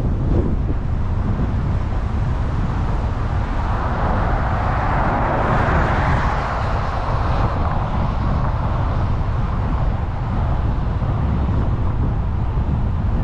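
Steady road and wind noise of a car being driven, a constant low rumble with hiss that swells louder for a few seconds around the middle.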